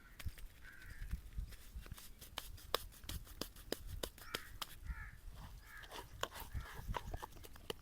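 Straight razor scraping across stubble in short strokes, giving a run of dry, crackling ticks.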